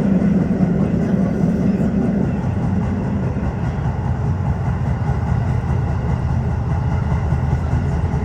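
Tokyo Metro 15000 series train running between stations in the subway tunnel: a steady rumble of wheels on rail, with a strong low hum that eases off over the first few seconds.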